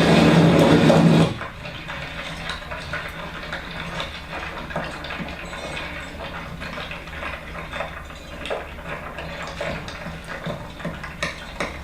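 A loud steady droning sound from the played-back presentation audio cuts off suddenly about a second in. It leaves quieter room sound with scattered light clicks and clinks.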